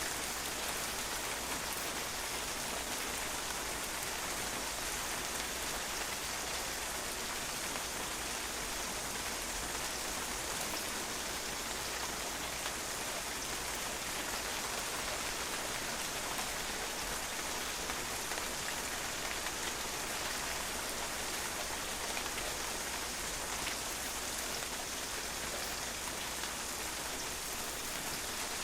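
Steady rain falling and drops pattering on a patio, an even dense hiss with countless small drop impacts.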